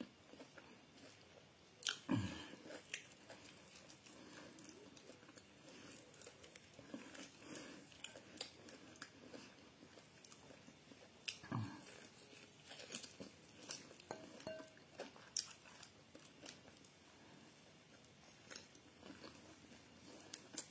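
A person chewing and biting barbecued meat eaten by hand, faint wet mouth clicks and smacks, with two short louder sounds about two seconds in and near the middle.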